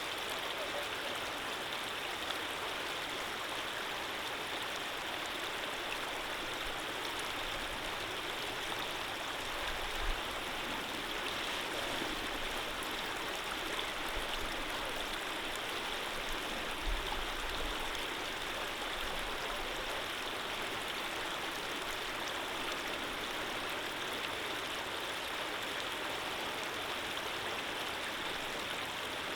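A gentle stream of running water flowing with a steady, even rush. Two faint low bumps come about a third of the way in and again a little past halfway.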